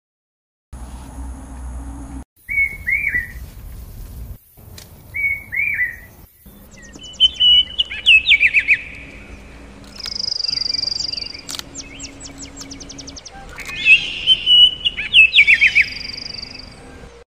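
Birds chirping and singing: a few short sweeping chirps, then rapid trilled phrases repeated several times, with a steady high note between them.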